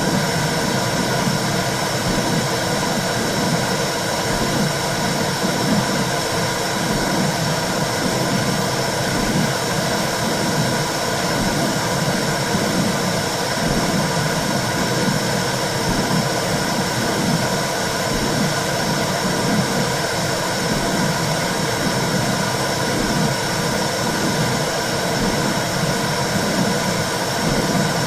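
Womb sound for soothing a baby: a constant whooshing noise with a low, uneven throbbing underneath.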